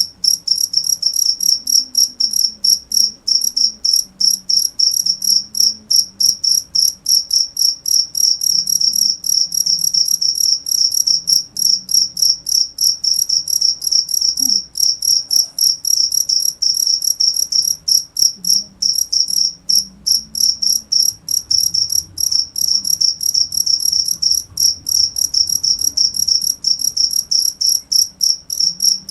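A cricket chirping: a steady, high-pitched trill of rapid, evenly repeated pulses with occasional brief breaks.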